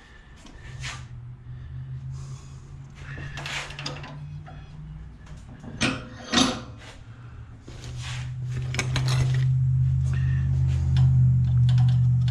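A small motor hums steadily in two spells, louder in the second, with clicks and handling knocks of metal scrap between, two sharp knocks near the middle.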